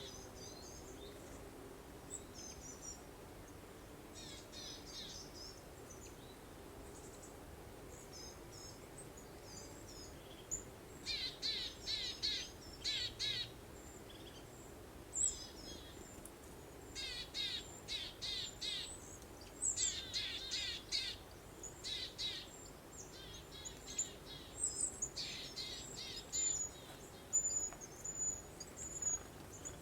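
Songbirds calling and singing in repeated bursts of quick, high, sweeping notes, sparse at first and busier from about a third of the way in, over a faint steady breeze-like hiss.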